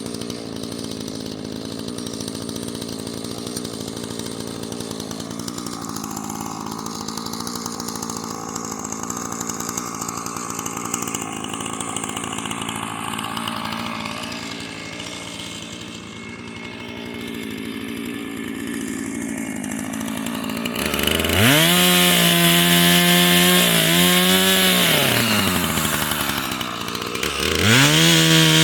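Husqvarna two-stroke chainsaw idling steadily, then revved up to high speed about 21 seconds in and held there for a few seconds. It drops back toward idle and is revved up again near the end.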